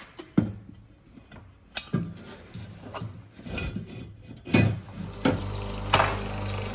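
Objects knocked and handled in a series of sharp clatters. About five seconds in, an electric machine starts and runs with a steady hum.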